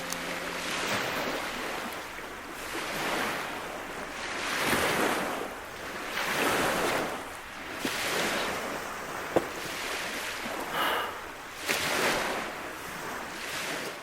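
Small lake waves washing against the shore, coming in repeated swells every second or two.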